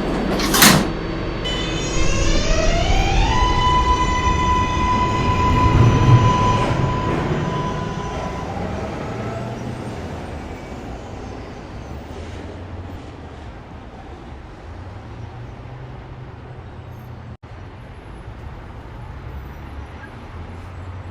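R142A subway train's doors closing with a sharp bang about half a second in, then its propulsion starting up: a stack of whining tones rising in pitch that settles into one steady high whine. The train's running noise then fades slowly as it pulls away.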